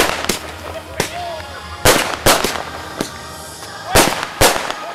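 Display fireworks going off: a string of sharp bangs at uneven spacing, about nine in five seconds, as bursts of stars break in the air.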